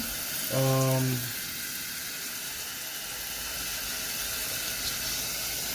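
Water running steadily into the tub of a twin-tub portable washing machine as it fills for the rinse, an even hiss. A brief low steady tone sounds about half a second in.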